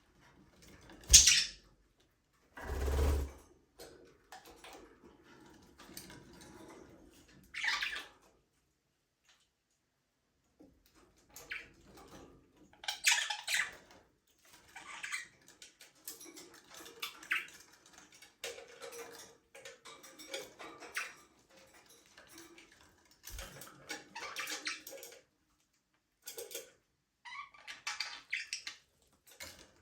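Budgerigars chirping and chattering in scattered short bursts, the loudest a sharp call about a second in, with a brief muffled thump near three seconds.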